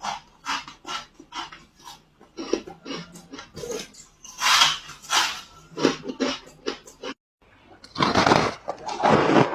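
Ice being bitten and chewed close to the microphone: a quick run of crisp crunches and cracks. There is a brief silent break about seven seconds in, after which the crunching is denser and louder.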